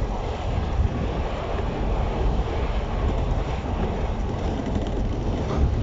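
Steady low rumble and hiss beside a stationary JR East 115 series electric train standing at a platform.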